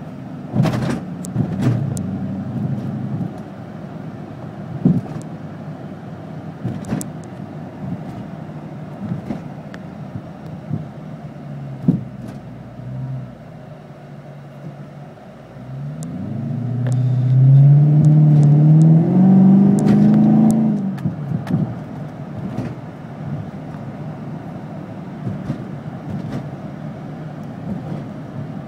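Supercharged 5.7-litre Hemi V8 of a Dodge Charger with an SLP Loudmouth II cat-back exhaust, heard from inside the cabin: running low and steady while cruising. About 16 seconds in it accelerates, the engine note rising for about five seconds before the driver backs off. Scattered light clicks and knocks run throughout.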